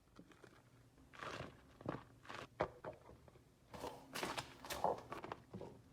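Beeswax food wrap being scrunched in the hands: a series of irregular crinkling rustles, thickest about four seconds in. Scrunching warms the wax and activates the wrap so that it sticks.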